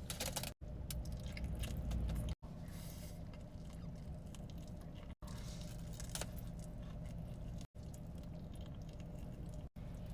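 Close-miked eating sounds: chewing and wet squishing of a Chipotle burrito, with crackly bursts, over a low steady hum. The sound cuts off abruptly several times where short clips are spliced together.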